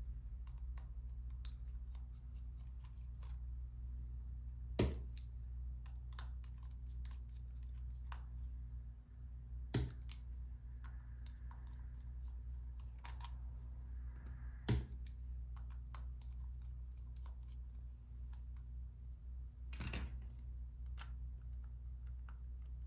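Small clicks and taps of tools and plastic parts being handled during disassembly of a Sony SELP1650 lens, over a steady low hum. Four sharper clicks stand out, about five seconds apart.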